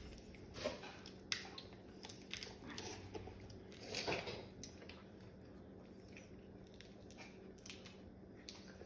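Eating sounds of king crab: scattered soft crunches and clicks of biting and chewing, the loudest about four seconds in, then quieter chewing.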